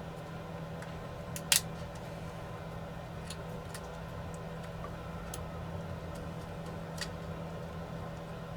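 A few sharp clicks and ticks of small tools working on a drone's small plastic parts and connectors, one louder click about a second and a half in, over a steady electrical hum.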